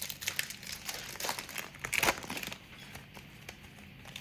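A trading card pack wrapper being torn open and crinkled, a dense crackle of rustling that is loudest about two seconds in and then dies down.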